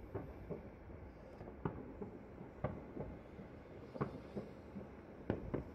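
Distant New Year fireworks going off: about seven sharp, irregularly spaced bangs over a steady low rumble.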